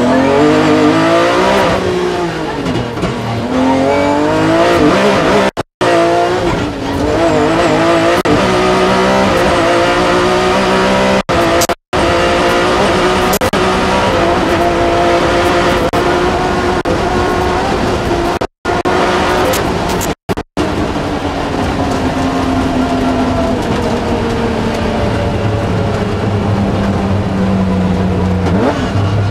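BMW M3 rally car's engine heard from inside the cockpit, driven hard on a stage: revs repeatedly climbing and falling as it is worked through the gears, settling to a steadier, gradually falling note near the end. The sound cuts out completely for a split second several times.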